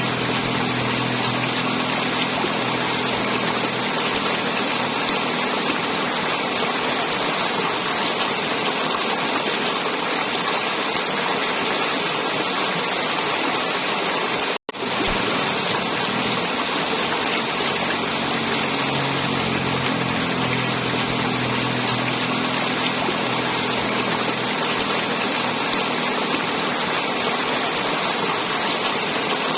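River water flowing and gurgling steadily, with a brief dropout to near silence about halfway through.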